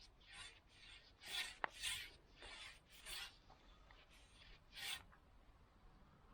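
Faint hand rubbing strokes on old wood as a wooden frame is cleaned up: about six short strokes, with a sharp click about one and a half seconds in.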